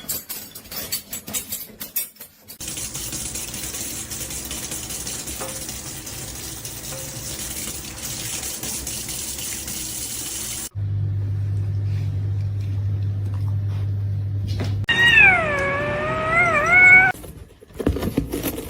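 A domestic cat gives one long, drawn-out meow of about two seconds whose pitch wavers and falls, the loudest sound here. Before it come several seconds of steady hiss, then a low steady hum.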